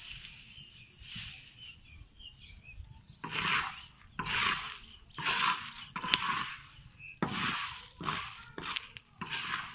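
Barley grains being stirred and scraped around a pan while dry-roasting, in rasping strokes about once a second.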